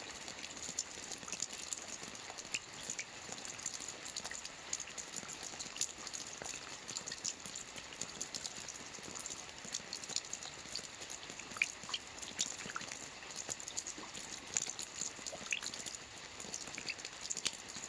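Soft rain falling on a roof: a steady patter of many small drops, with louder single drop ticks scattered throughout.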